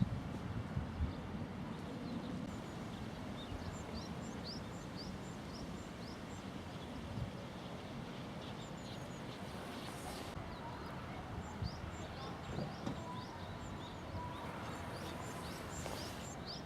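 Birds calling in the open: many short, high chirps repeated over and over, over a steady low rumble.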